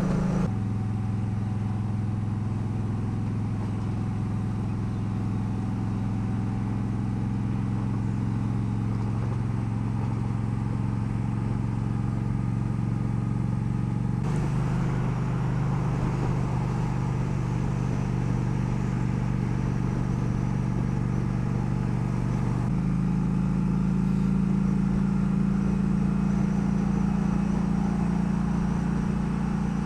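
Motorcycle engine running steadily at cruising speed, its pitch stepping to a new level about halfway through and again about two-thirds of the way in.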